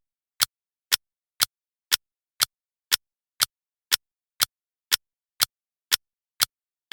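Clock ticking, sharp even ticks about two a second with silence between them.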